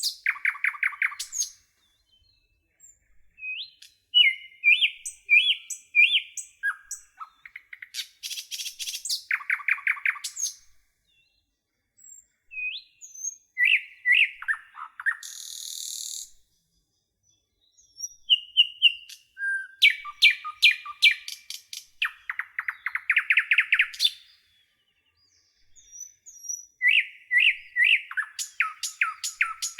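Songbirds singing in short phrases of rapid chirps and trills, with brief pauses between phrases. A short hiss comes about halfway through.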